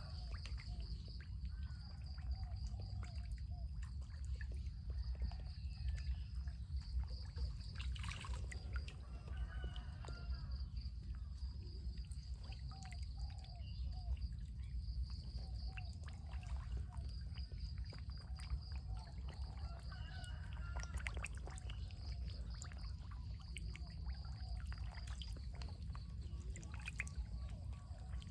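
Water pouring and trickling steadily, with birds calling now and then over a steady high-pitched buzz.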